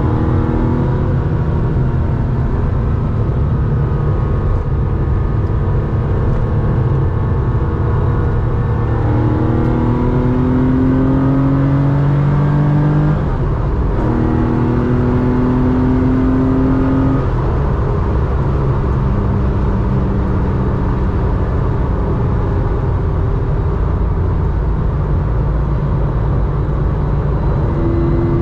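The air-cooled flat-six engine and 2-in-1-out exhaust of a 1987 Porsche 911 3.4 running while driving. It pulls up through the revs, makes a brief break about halfway through that is typical of a gear change, pulls again, then settles to a steadier, lower note.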